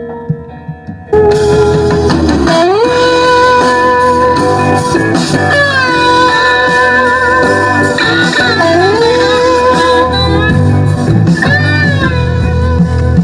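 A song played through a repaired iBall 2.1 home theatre's speakers and subwoofer: a gliding plucked-string melody over a strong bass line, jumping much louder about a second in. The system plays cleanly, with none of the cracking bass that leaking subwoofer air had been causing.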